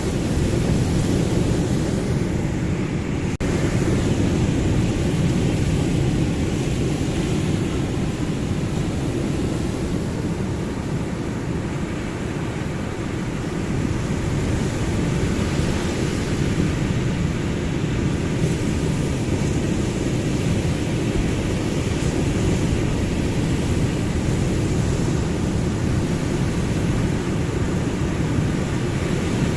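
Ocean surf: a continuous low rumble of waves breaking, swelling and easing slowly.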